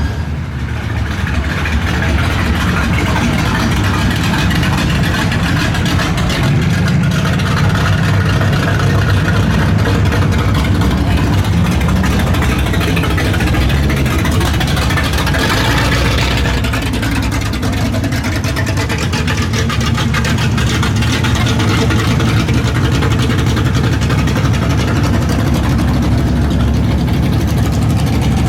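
V8 muscle-car engines running at low speed in slow cruising traffic, a steady low engine note that swells a little about halfway through, with voices in the background.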